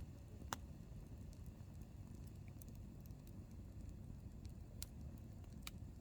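Hardwood campfire burning, with a few sharp pops of the wood, the loudest about half a second in and two more near the end, over a steady low rumble.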